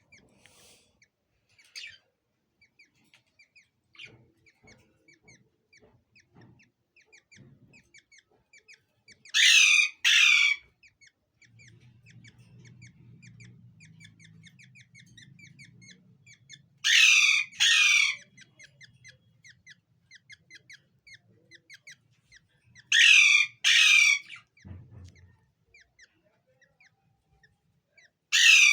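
A bird giving loud, harsh squawks in pairs, four times, each call sweeping downward. Between them runs a faint, rapid, high chirping.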